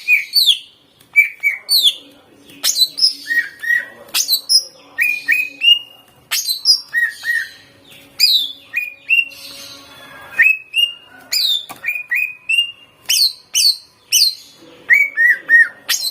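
Green leafbird (cucak ijo) singing a fast, varied song of short whistled notes, many sliding down in pitch and often in quick pairs or threes, with sharp clicking notes between them.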